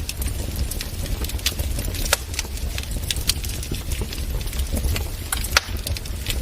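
Wood fire crackling in a fireplace: irregular sharp pops and snaps over a low steady rumble, with one louder pop about five and a half seconds in.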